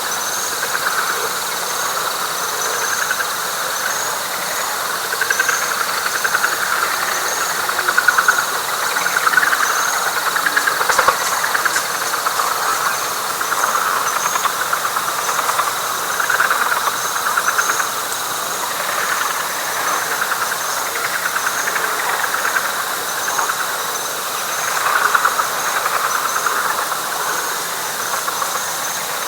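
Night frog chorus in a wet pine flatwoods: a dense, fast-pulsing trill of many frogs that swells and fades in waves every few seconds. Short high chirps repeat over it, and a thin steady high whine stops about halfway through.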